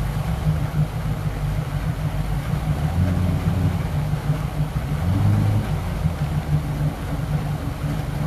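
Twin carbureted boat engines idling as they warm up, with a slightly uneven idle that the owner takes as a sign that they need a tune-up. The engine note rises a little about three seconds in, and again briefly around five seconds.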